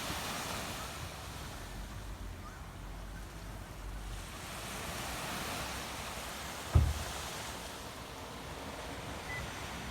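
Sea waves washing onto a beach, a steady wash that swells and eases, with wind rumbling on the microphone. A sharp low thump about seven seconds in.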